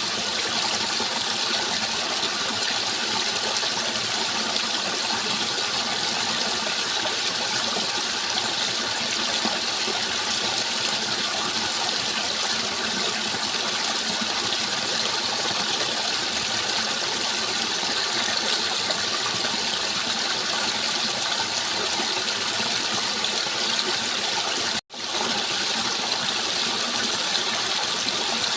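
Steady rushing of flowing water, even and unbroken, with the sound cutting out for an instant about 25 seconds in.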